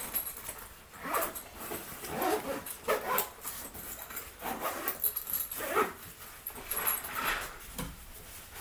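A dog making short sounds, about half a dozen spaced irregularly roughly a second apart.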